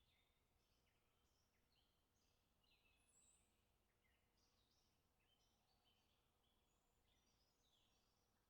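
Faint chorus of songbirds: many short chirps and whistled phrases from several birds overlapping.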